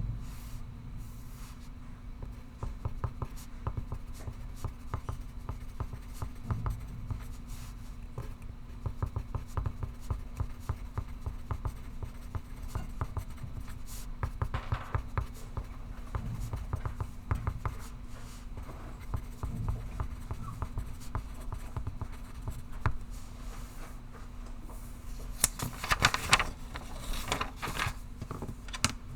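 Pencil writing on paper: a run of short, scratchy strokes over a steady low room hum, with a louder stretch of scratching and rustling near the end.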